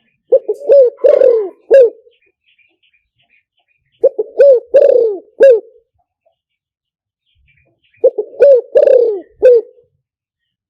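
Spotted dove cooing as a trapping decoy call: three phrases about four seconds apart, each a quick run of low coos with a longer falling note in the middle.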